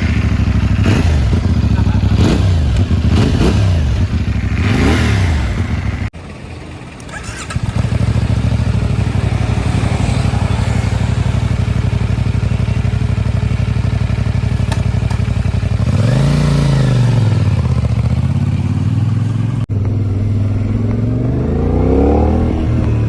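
CFmoto 450NK's 450cc parallel-twin engine with a 270-degree crank running, revved in quick blips for the first few seconds, then running steadily. About sixteen seconds in the revs rise and fall once, and they climb again near the end.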